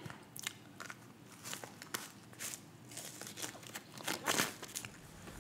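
Close-miked eating sounds: chewing with short moist mouth clicks and small crunches, spaced out, with a louder cluster about four seconds in.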